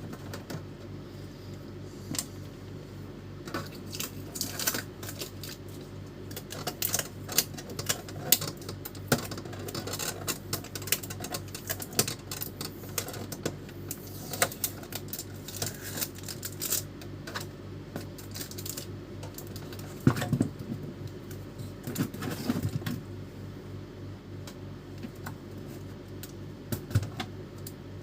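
Irregular plastic clicks and knocks from an Epson L310 inkjet printer's casing and parts being handled and taken apart, over a steady low hum.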